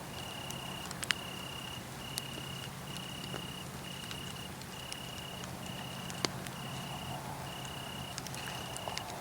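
Cricket chirping in a steady series of short, high trills, about one every second, over a wood fire crackling with a few sharp pops.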